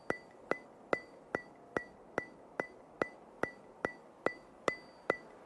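Steady ticking: a sharp click with a brief high ring, repeated evenly about two and a half times a second, thirteen times in all.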